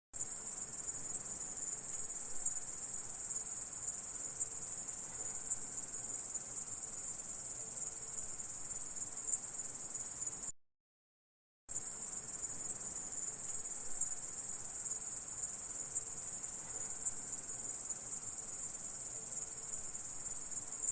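Steady high-pitched insect trill from a grasshopper, running without a break except for a clean drop to silence lasting about a second, roughly halfway through.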